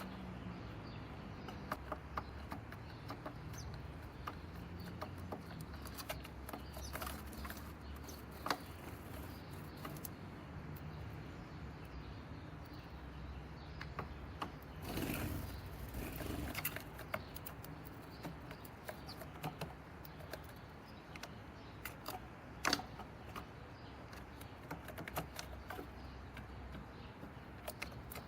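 Small birds moving about: scattered light taps and clicks, with a brief rush of wing flapping about fifteen seconds in, over a steady low background hum.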